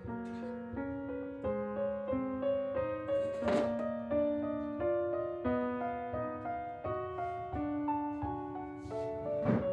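Background piano music: a slow, gentle melody of held notes, with two light knocks, one about three and a half seconds in and one near the end.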